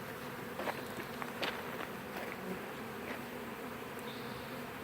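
Honeybee swarm humming steadily as the bees move into a new hive, with a few brief louder buzzes from single bees close by.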